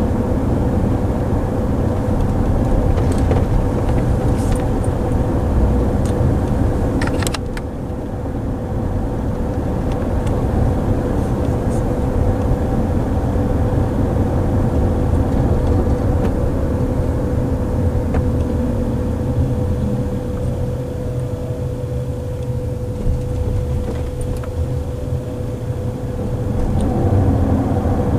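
Steady road and tyre rumble inside the cabin of a moving Waymo self-driving car, with a steady whine running under it. A few sharp clicks come about seven seconds in, after which the noise drops a little; near the end, faint tones glide down and back up.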